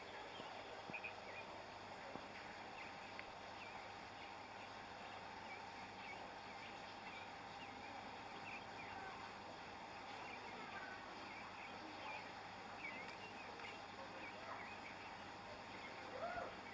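Faint, scattered chirps of small birds over a steady background hum.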